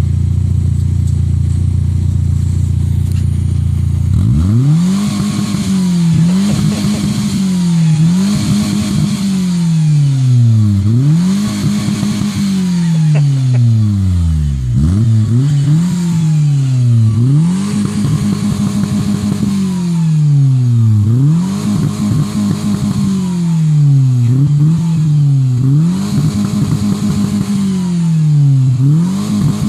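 VW Golf Mk3 engine idling steadily, then from about four seconds in revved again and again, the revs rising and falling once every second or two.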